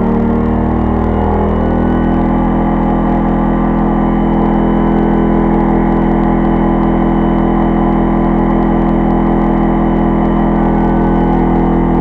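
Pulsar 2300-watt inverter generator's small engine running under the load of a 700-watt microwave in eco mode, kicking up a little in speed over the first couple of seconds and then holding a steady, loud drone.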